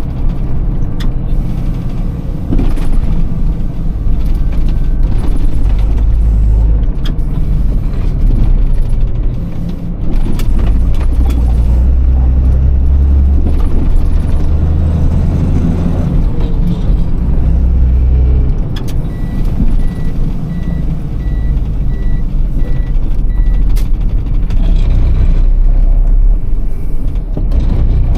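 Iveco truck's six-cylinder Tector diesel engine running while driving, its note rising and falling with throttle and gear changes. About twenty seconds in, a row of about eight short high beeps sounds.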